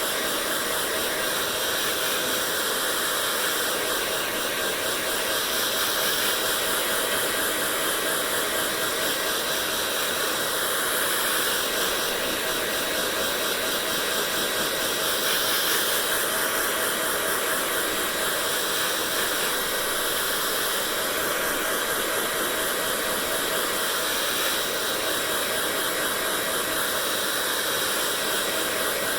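Hair dryer running steadily: a constant rushing whir of fan and airflow with a faint motor hum that does not change.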